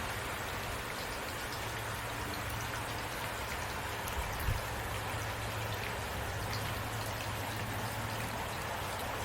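Heavy rain falling steadily, an even hiss of drops with scattered individual drop ticks and a steady low hum beneath. A brief low thump comes about four and a half seconds in.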